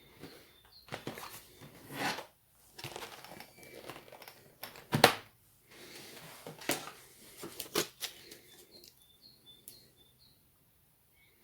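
Handling noises: rustling and crinkling with scattered clicks, and one sharp knock about five seconds in.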